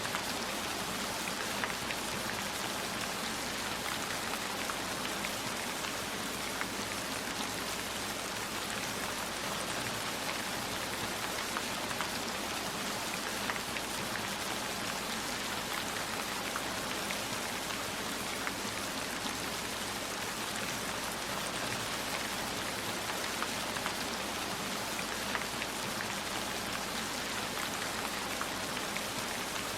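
Steady rain: an even hiss with many small sharp drop ticks scattered through it.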